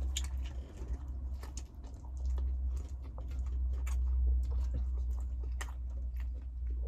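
A person chewing food close to the microphone: irregular small clicks and mouth noises over a steady low hum.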